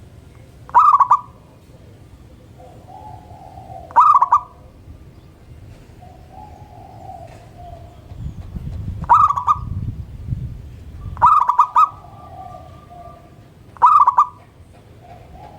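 Zebra doves (perkutut) cooing: a loud, short call repeats five times, every two to three seconds. Softer, lower coos from another dove answer in between.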